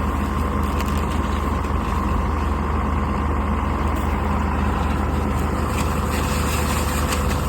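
A vehicle engine running steadily at a constant speed, with a strong low hum and a steady whine above it.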